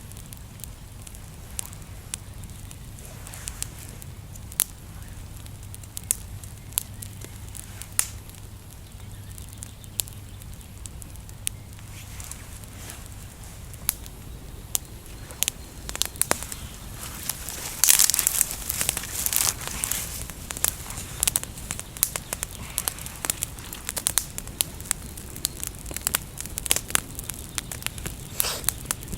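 Small campfire of natural kindling crackling and popping as it catches, the pops growing thicker and louder about two-thirds of the way in.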